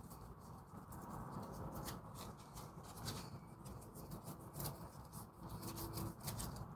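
Faint rubbing and light scattered clicks of a new brake pad being handled as lubricant is rubbed onto its back by finger.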